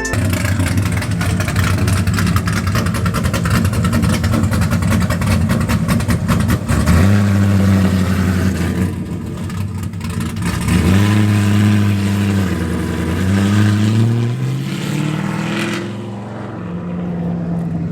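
Car engine with a loud exhaust, running rough and raspy at first, then settling into a steady note. Near the middle it eases off, then accelerates with the pitch climbing for several seconds, drops back and holds steady.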